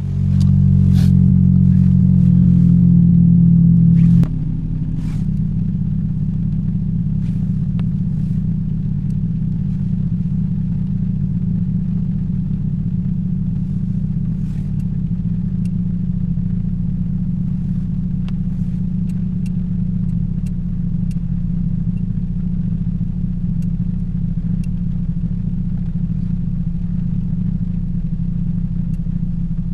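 Toyota Yaris 1.5 L 1NZ-FE four-cylinder engine running steadily, with new spark plugs and coil packs fitted for a cylinder 3 misfire. About four seconds in, the level drops and the engine settles to a lower, even idle, with scattered light ticks over it.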